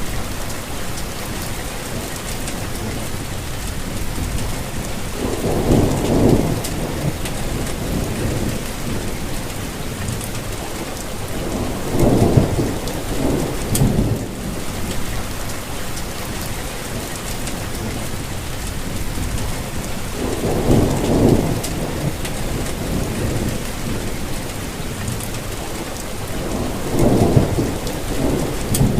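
Steady rain falling, with a low rumble swelling up and fading four times, every six to eight seconds.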